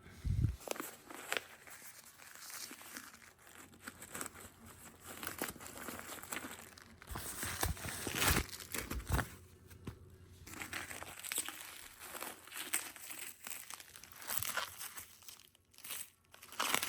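Packaging crinkling and rustling in irregular handfuls as a perfume box is unwrapped, with a few soft knocks, one about half a second in and a cluster around the middle.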